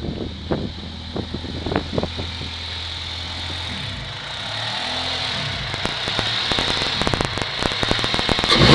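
1992 Honda Prelude engine idling roughly, with irregular ticks and pops over a steady low note; the idle wavers about halfway through and climbs through the second half. The uneven idle has a cause the owner cannot find.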